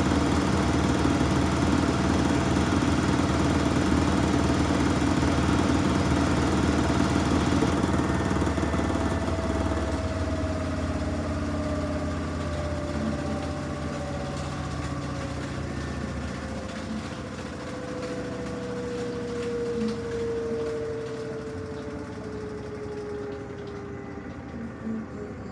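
Samsung washing machine spinning: a loud steady hum, then about eight to ten seconds in the motor eases off and the drum winds down with a slowly falling whine, the spin coming to its end.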